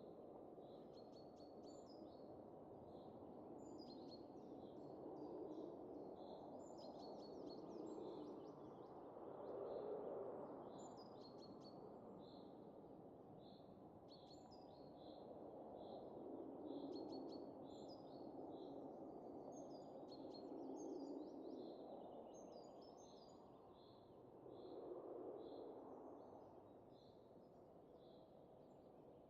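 Soft wind rising and falling in slow gusts, with small birds chirping in short, high notes over it.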